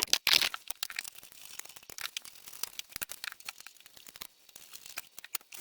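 Crinkling and tearing of material being handled: a dense run of small crackles, loudest in the first half-second and softer after.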